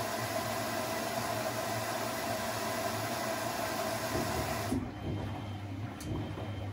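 Privileg 3001 S washing machine running with a steady hiss over a low hum. The hiss cuts off suddenly near the end, leaving the hum, and a single click follows.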